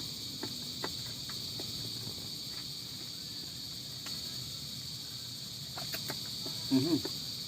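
Crickets chirring steadily in the background, with faint scattered clicks of someone chewing crisp, sour mango.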